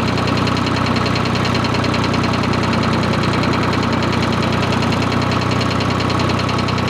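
Ford 4000 tractor engine idling steadily as it warms up, its temperature just beginning to rise with the thermostat still closed.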